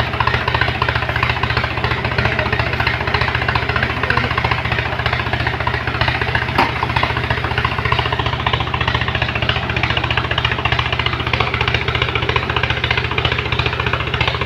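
Truck's diesel engine running steadily at idle, a fast, even pulsing beat.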